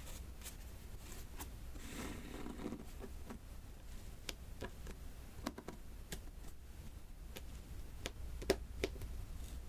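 Diamond-painting drill pen tapping small resin drills onto the sticky adhesive canvas: light, irregular clicks, with a short soft scraping rustle about two seconds in.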